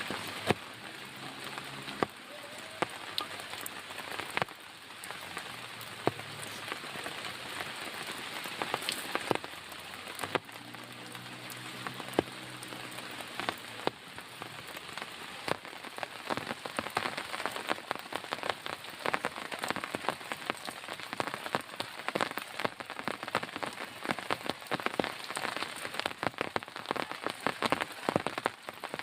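Heavy rain falling, with many separate drop impacts ticking over a steady hiss; the drops grow denser about halfway through.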